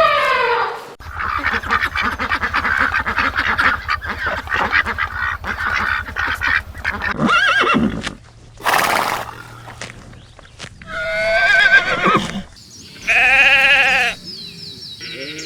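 Farm animal calls, several different calls one after another: a long stretch of busy chatter over a steady low pulse, then a short loud burst, then separate pitched calls near the end.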